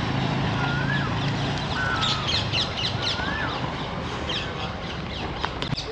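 Birds calling outdoors: a few clear rising-and-falling whistled calls about a second apart, with a run of quick high chirps in the middle.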